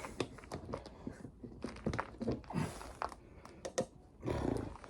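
Hand work on a motocross wheel and tyre: scattered knocks and clicks of tools and parts being handled, with two short scraping rustles about two and a half and four and a half seconds in.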